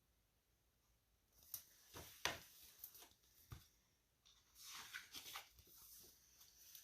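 Paper rustling and light handling clicks as a picture book's pages are turned, starting after about a second of near silence.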